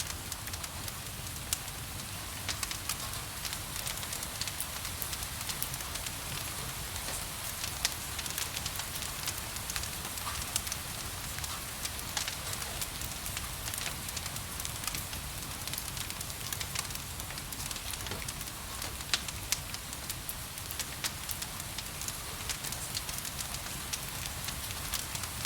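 Wood fire crackling, with many small sharp pops scattered irregularly over a steady hiss of rain.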